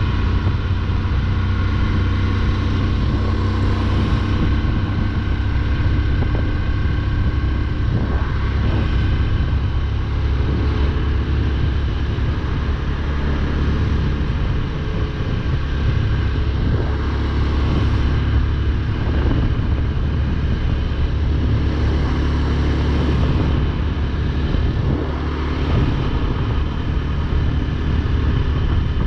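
Motorcycle engine running steadily at cruising speed, with a heavy low rumble from the ride underneath it.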